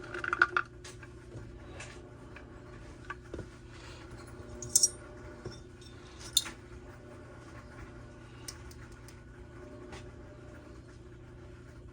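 A few scattered light clicks and clinks of small metal parts being handled on a workbench over a low steady hum, the sharpest about five and six and a half seconds in.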